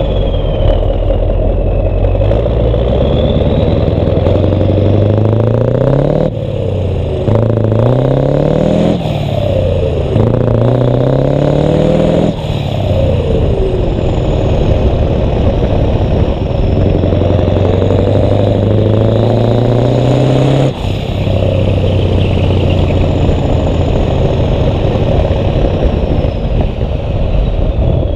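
Scania 143's V8 diesel with a loud exhaust, pulling hard. Its note climbs and then drops sharply at each of several gear changes, with a longer steady stretch in the middle.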